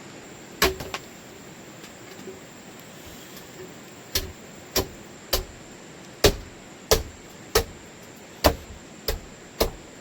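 Knife chopping food: three quick chops under a second in, then a steady run of sharp chops about every half second or so from about four seconds in.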